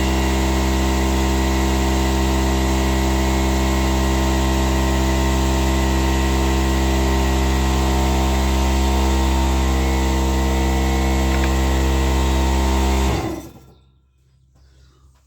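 Workshop air compressor running with a steady, loud hum, then stopping near the end and quickly running down.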